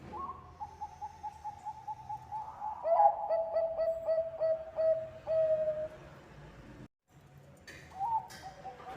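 Zebra doves (Thai-bred 'Bangkok' perkutut) cooing in rapid runs of short, soft notes. A higher run gives way about three seconds in to a louder, lower one. The sound cuts out briefly near the end, then the cooing starts again.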